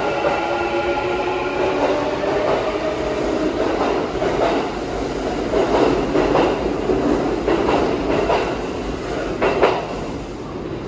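Kintetsu electric train braking into an underground station: the motor whine falls in pitch as it slows. From about four seconds in come short bursts of brake and wheel noise as it comes to a stop.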